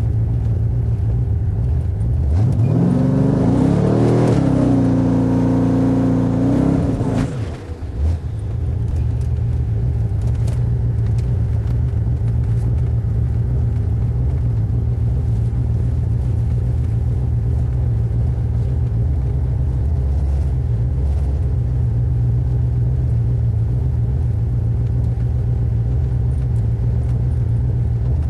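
Twin-turbo 1995 Mustang Cobra's V8 rumbling at low revs. A couple of seconds in it is revved: the pitch rises over about a second and a half, holds high for about three seconds, then drops off suddenly about seven seconds in. The steady low rumble then carries on.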